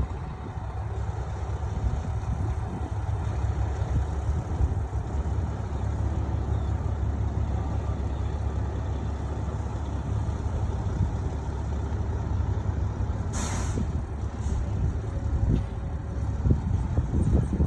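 Dump truck's diesel engine running with a steady low rumble as it moves, with a short air-brake hiss about thirteen seconds in.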